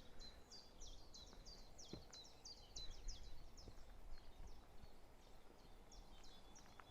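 Faint bird song: a long run of short, high chirps, about three or four a second, each sweeping down in pitch, over quiet outdoor background.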